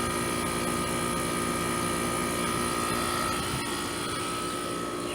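Trane central air conditioner's outdoor condensing unit running: the condenser fan and compressor give a steady whirring hum with a steady high tone that stops near the end. The compressor is back running after a capacitor change and a hard-start booster.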